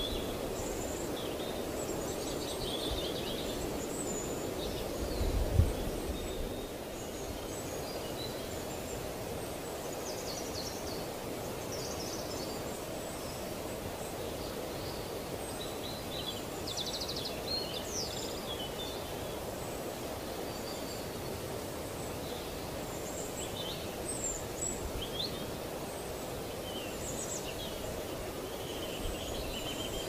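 Wild birds calling with many short, high chirps and trills at irregular intervals over a steady low background noise, with a brief low thump about five seconds in.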